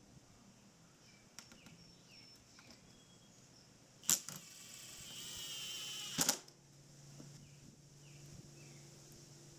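A power tool runs for about two seconds, starting and stopping with a sharp click, amid faint small tool clicks and a few short chirps.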